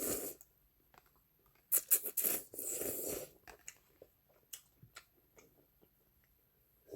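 Close-up mouth sounds of eating and drinking: a short noisy sound at the start, a louder cluster of slurps and smacks around two to three seconds in, then scattered small wet clicks.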